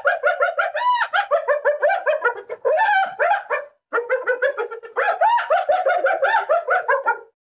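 Hyena giggling: a rapid run of high-pitched, rising-and-falling calls, about six to eight a second, broken by a brief pause about four seconds in and stopping shortly before the end.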